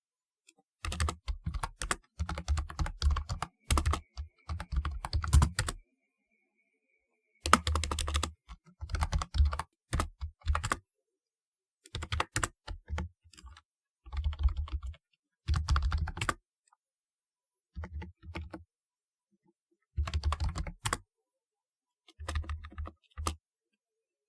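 Typing on a typewriter-style keyboard (retro round-keycap mechanical keyboard): quick runs of clacking keystrokes in bursts of a second or two, separated by short pauses, with the longest pause about six seconds in.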